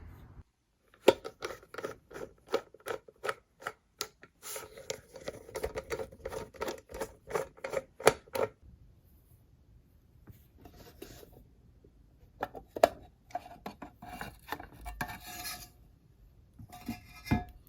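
BMW DME engine control unit casing being worked open with a hand tool: rapid clicks and scraping for the first several seconds, then quieter, scattered scrapes and handling noises.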